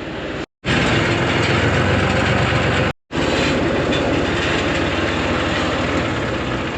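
Large farm diesel engine running steadily with a fast, even firing pulse, cut off twice by abrupt silent breaks about half a second and three seconds in.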